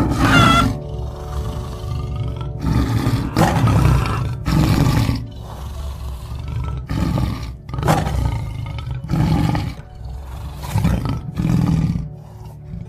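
Tiger roaring and growling in a run of repeated calls, about one a second, the loudest one at the start, over soft background music.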